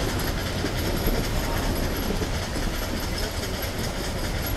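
Nilgiri Mountain Railway toy-train coaches running on metre-gauge track: a steady noise of wheels on rail and coach rattle, heard from beside an open coach door.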